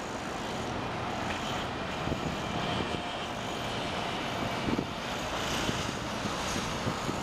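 Steady din of road vehicles and construction-site machinery, with a few short knocks.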